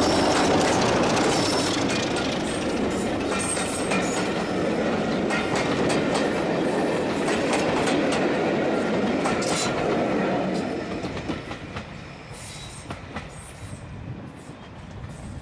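A train hauled by BR Class 33 diesel 33012 rolling past, its wheels clicking over the rail joints. The sound is loud, then fades away after about ten seconds as the train moves off.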